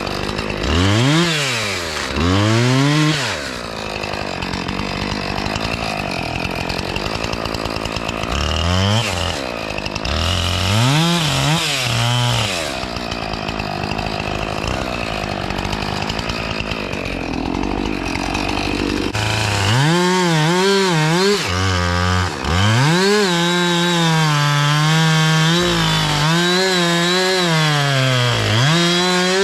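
Two-stroke chainsaw felling a pine: a few quick throttle blips early on and again about ten seconds in, then held near full revs under load for most of the last ten seconds, dipping briefly once or twice.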